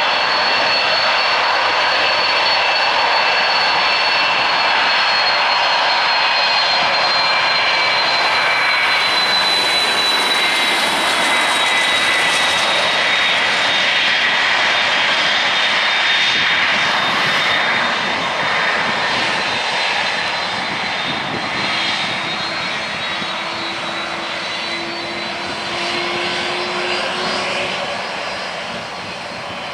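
Jet engines of an Airbus A330-300, its twin General Electric CF6-80E1 turbofans: a loud, steady roar with high whining tones that slowly fall in pitch, growing quieter over the second half.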